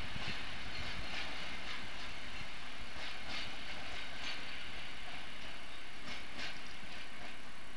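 Historic train of vintage coaches rolling away over the yard's points and rail joints, a steady rumble with a few faint wheel clicks.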